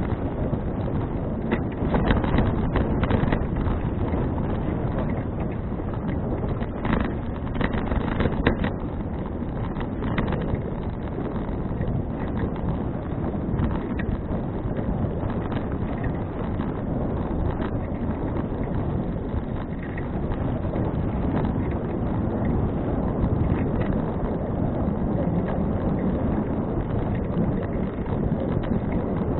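Wind buffeting an action camera's microphone on a moving bicycle: a steady low rush of noise, with a scatter of sharp clicks and rattles in roughly the first ten seconds.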